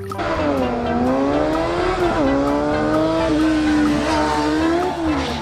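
Racing motorbike engine sound revving up and down in long pitch glides, with a sharp dip and climb about two seconds in.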